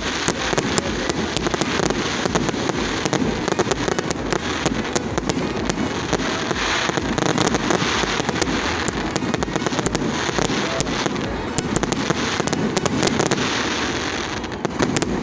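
Fireworks going off continuously: rapid crackling and popping with many sharp bangs overlapping, without a break.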